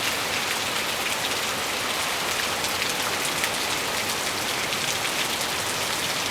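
Steady heavy rain from a hurricane, with many individual drop hits close by.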